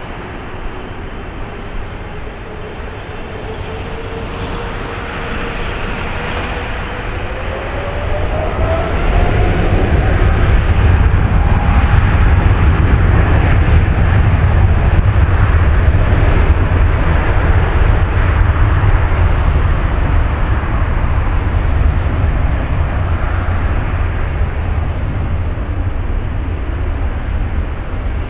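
Wide-body jet airliner's engines at take-off power. A heavy rumble builds over the first ten seconds, with a whine rising steadily in pitch, then holds loud and eases slightly near the end.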